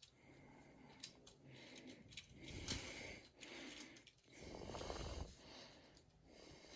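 Quiet room with soft breaths close to the microphone, in two gentle swells, and a few faint clicks.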